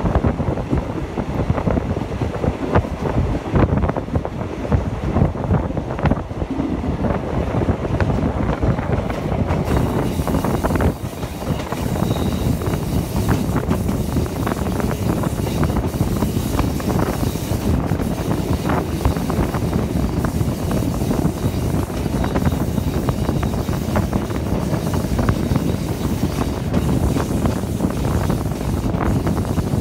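Passenger train carriage rolling along the track, a steady rumble with irregular clicks and knocks from the wheels and rails. Wind rushes past the open window onto the microphone.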